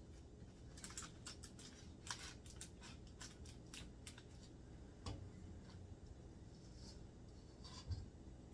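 Faint clicks and scrapes as cookie dough is portioned and pressed onto a baking sheet. A quick run of light clicks comes in the first few seconds, then two soft knocks about five and eight seconds in.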